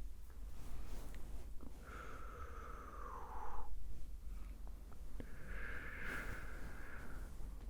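Close-miked breathy mouth sounds: two drawn-out breaths, the first sliding down in pitch and the second held steady, with a few faint mouth clicks between them.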